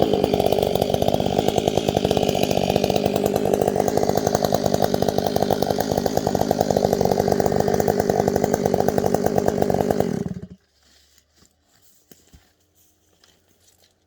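Gas chainsaw running steadily at high speed, which cuts off abruptly about ten seconds in.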